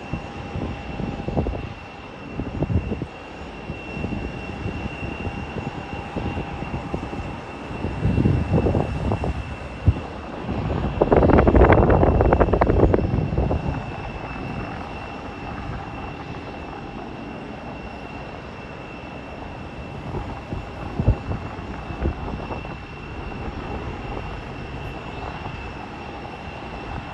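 Jet airliner engines running with a steady high whine, mixed with gusty rumble from wind buffeting the phone's microphone. A louder surge of noise builds about eight seconds in and peaks around twelve seconds before easing off.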